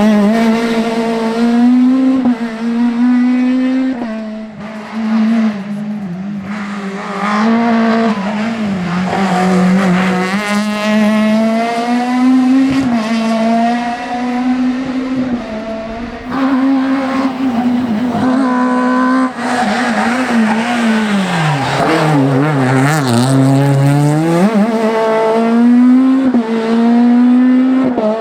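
Škoda Octavia Kit Car rally car's naturally aspirated two-litre four-cylinder engine at high revs, its pitch rising and falling as the driver accelerates, changes gear and lifts off. Near the end the revs drop low and climb again sharply.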